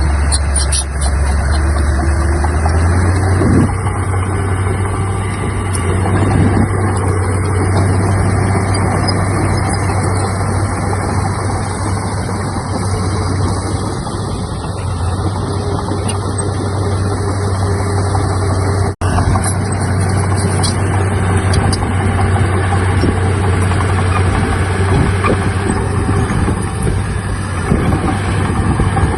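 Heavy diesel earthmoving machinery running steadily with a low engine drone that steps up in pitch a few seconds in. There is a momentary break about two-thirds of the way through.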